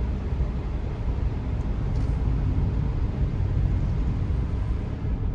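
Steady road and engine noise of a moving car heard from inside the cabin: an even low rumble.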